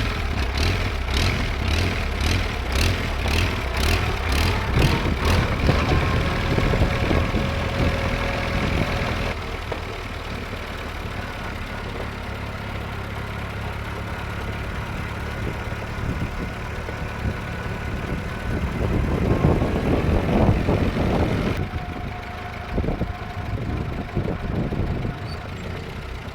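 1938 Allis Chalmers Model B tractor's four-cylinder engine running steadily at a low, even pace, with the sound jumping between takes a few times.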